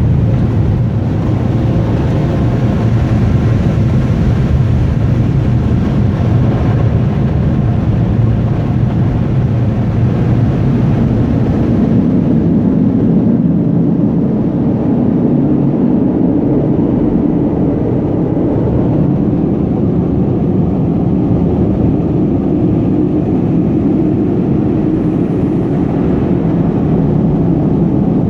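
Car wash air dryers blowing hard on a big cargo van, a loud steady roar heard from inside the van, its low rumble shifting higher about twelve seconds in.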